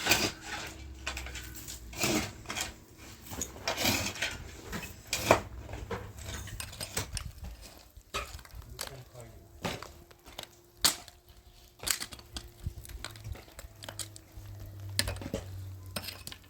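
Irregular clatter of hard objects being handled: sharp clinks and knocks, roughly one every second or two.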